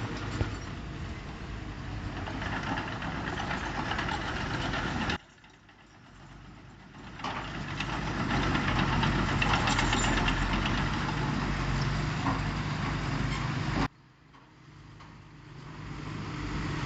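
Diesel engines of heavy earthmoving machinery running. The level drops sharply about five seconds in and again near the end, then builds back up each time.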